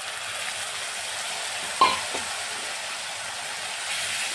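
Chopped onions, green chillies and ginger sizzling steadily in oil in a metal kadai just after a splash of water is poured in, stirred with a spatula. One sharp knock of the spatula against the pan about two seconds in.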